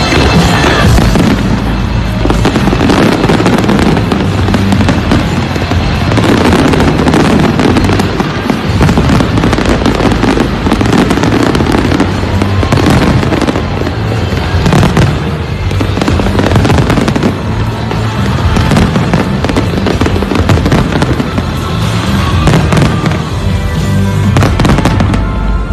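A large fireworks display going off continuously: a dense run of bangs, pops and crackle from aerial shells and ground-fired fountains. Loud music plays along with it.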